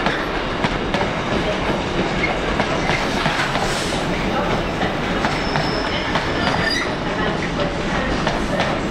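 A train moving along the rails: a steady running noise with scattered clicks from the wheels, and two brief high wheel squeals, about five and a half and about six and a half seconds in.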